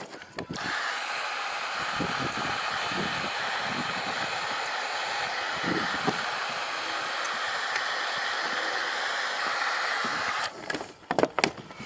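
A handheld electric tool blowing a steady rush of air runs for about ten seconds. It switches on just after the start and cuts off near the end.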